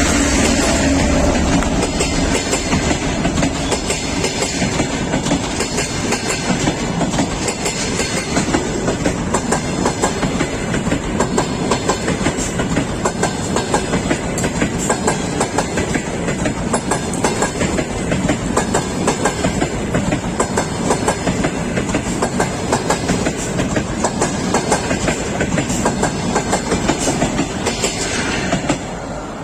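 Passenger coaches of a long-distance train rolling past close by, wheels clicking rapidly and rhythmically over rail joints over a steady rumble. The clicking stops and the level falls sharply near the end as the last coach goes by.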